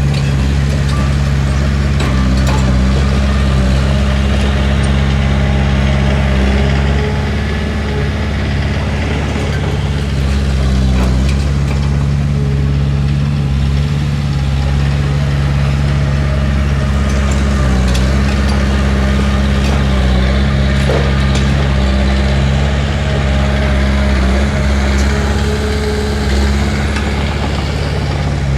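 Heavy earthmoving machine's diesel engine running steadily at a constant speed.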